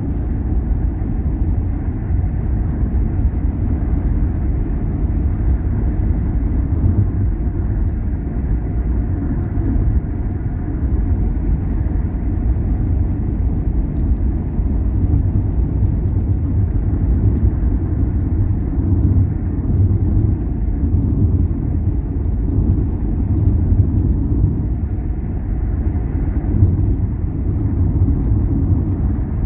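Steady low rumble of a car driving along a road, engine and tyre noise without change.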